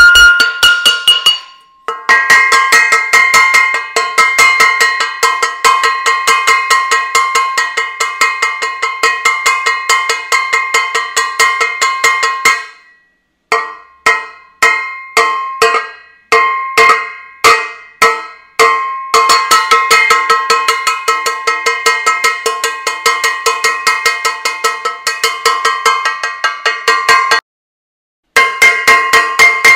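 A metal saucepan banged repeatedly, each strike ringing like a bell. It goes in fast runs of strikes, with a slower stretch of separate blows in the middle and two brief pauses.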